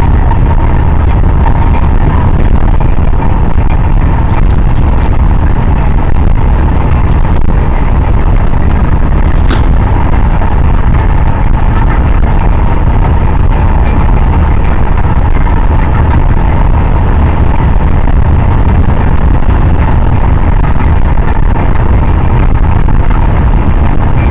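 Loud, steady running noise of a moving vehicle, strongest in the low rumble, with a faint steady hum; a single short click about ten seconds in.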